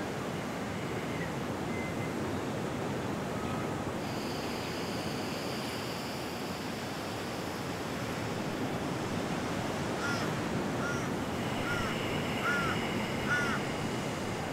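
Steady rushing outdoor background noise, with a bird calling about five times in quick short arched notes over the last few seconds.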